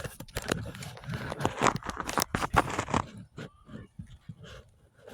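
Close handling noise as the camera is set in place: rustling, scraping and knocks for about three seconds, then only faint scattered ticks.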